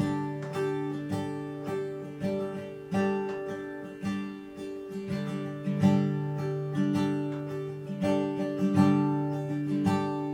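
Acoustic guitar played solo, fingerpicked and strummed chords in a steady rhythm, the instrumental intro to a song before any singing.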